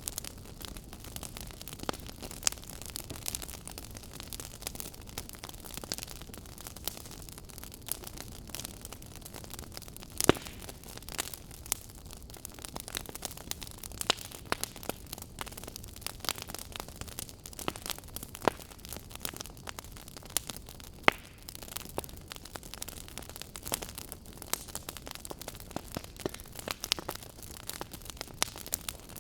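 Wood fire crackling in a fireplace: irregular sharp pops and snaps over a steady soft hiss, with a few louder pops about ten seconds in and again about twenty-one seconds in.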